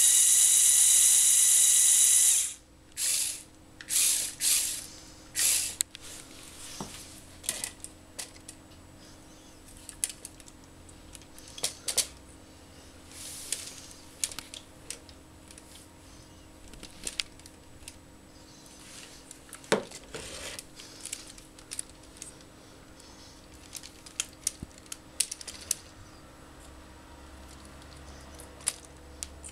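Lego trial truck's small electric motors and plastic gears whirring, a loud steady whine for the first two seconds or so, then in short bursts. After that come many scattered clicks and rattles of plastic parts.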